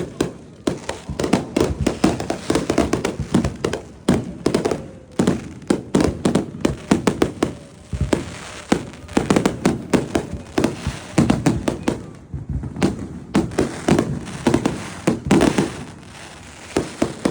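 Fireworks display: rapid crackling and popping bursts in dense clusters, with brief lulls.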